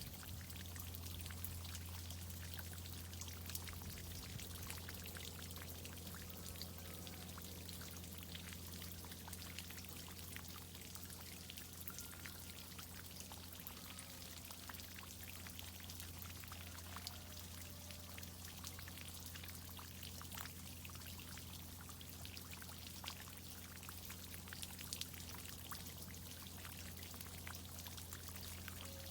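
Water from a tree irrigation system pouring and dripping steadily, a fine patter of droplets over a steady low hum.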